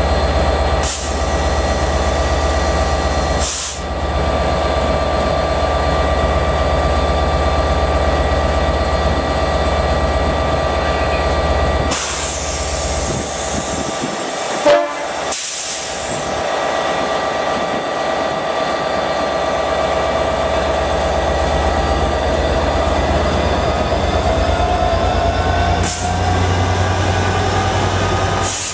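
A train at a station platform: a steady low hum with several whining tones, a brief loud blast about halfway, then a whine rising in pitch from about two-thirds of the way in as the train draws away.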